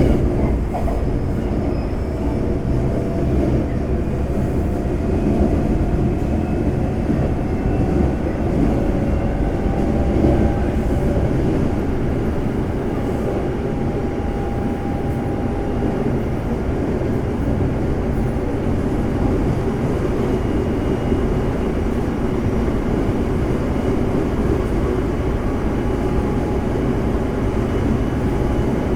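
Cabin sound of a Semboku Rapid Railway 5000 series electric train with a Hitachi GTO VVVF inverter, running between stations: a steady rumble of wheels on track, with faint tones that drift slowly upward in pitch over the first half.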